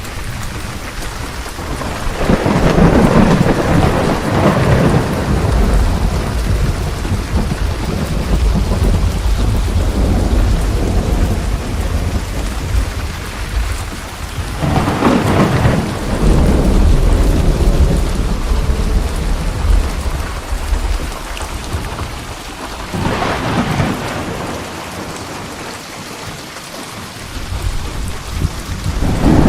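Steady heavy rain with rolling thunder: long rumbling peals build up about two seconds in, again around the middle, and once more near the end.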